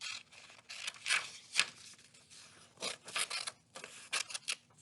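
Scissors cutting paper: a string of short, irregular snips as a paper template is cut out.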